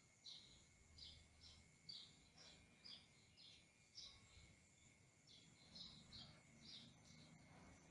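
A small bird chirping over and over: faint, short, high chirps about two a second, with a brief pause a little past the middle.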